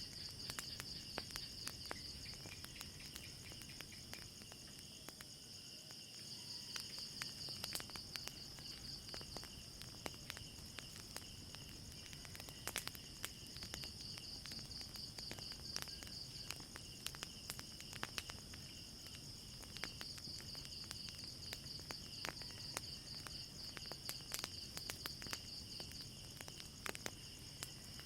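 A steady, high-pitched chorus of night insects, like crickets, trilling throughout, with many scattered sharp crackles and pops from a burning fire.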